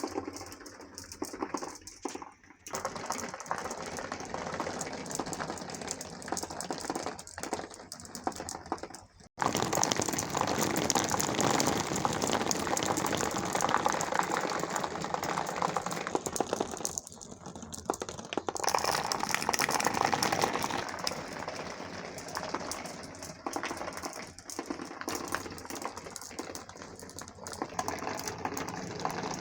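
Many marbles rolling and clattering along a marble run track in a dense stream of small ticks. It breaks off abruptly about nine seconds in and comes back louder and busier.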